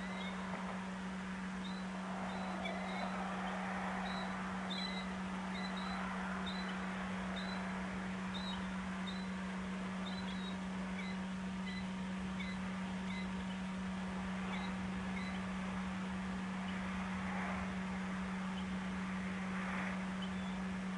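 A steady low hum under outdoor dusk ambience, with a bird giving short, high chirps about once a second for much of the time. A few soft, breathy swells come and go.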